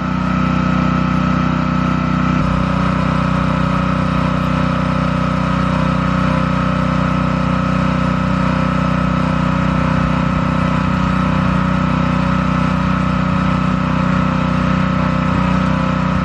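Small gasoline pressure-washer engine running steadily with an even, unchanging hum.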